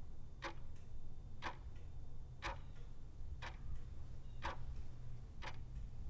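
Clock ticking steadily once a second, six ticks, over a low steady hum.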